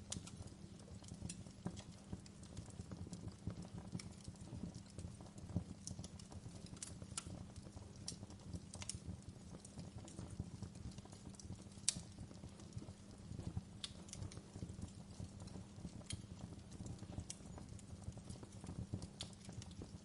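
Wood fire crackling in a fireplace: irregular sharp snaps and pops over a steady low rumble of the flames, with one louder pop about twelve seconds in.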